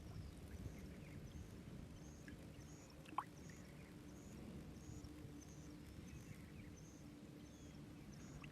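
Faint outdoor ambience: a low rumble under a regular high chirping, about two chirps a second, with one short rising call about three seconds in.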